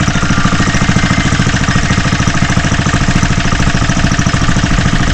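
Single-cylinder Briggs & Stratton 3 hp engine on a vintage minibike running steadily, with an even, rapid string of firing pulses at a constant speed.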